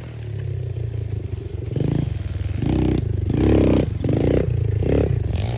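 Small pit-bike engine running with a series of short throttle blips, about five quick revs from about two seconds in.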